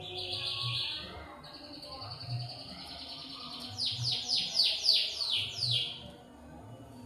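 Lovebird chirping: buzzy, steady chatter, then a quick run of about seven chirps that each sweep downward in pitch.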